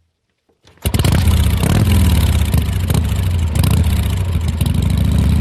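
Yamaha XV400 Virago's air-cooled 400 cc four-stroke V-twin engine running steadily, starting suddenly about a second in.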